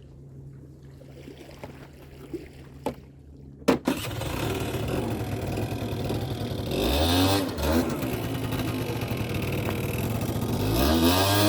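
Kymco Super Fever ZX 50cc two-stroke scooter engine: a few light clicks, then a sharp click and the engine catches about four seconds in and runs. It is revved up and back down twice, once in the middle and again near the end.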